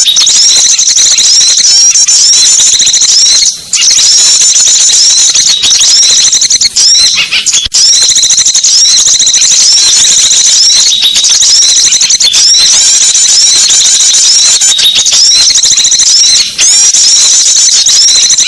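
Dense, unbroken high-pitched chattering and twittering of many small birds, a looped lure recording (suara pikat) made to draw small wild birds in. Rapid overlapping chirps, with a few brief breaks.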